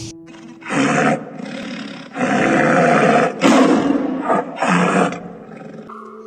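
A big cat roaring: about five rough roars in quick succession, the longest a little over a second, starting about two seconds in.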